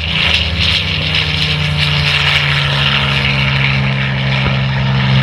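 North American T-28A Trojan's radial piston engine and propeller running steadily as the aircraft flies.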